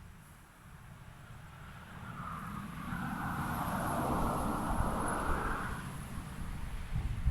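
A car passing by: road noise swells over a couple of seconds, holds, then fades away.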